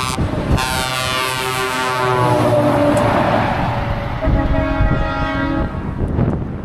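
Scania trucks sounding their horns as they drive past, with several horn tones at once; in the first couple of seconds the pitch slides down as a truck passes, and a steadier horn blast follows about four seconds in.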